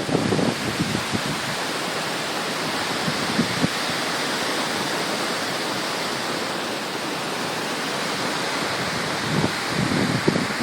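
Hurricane wind and heavy rain making a steady rushing hiss, with gusts buffeting the phone's microphone near the start and again near the end.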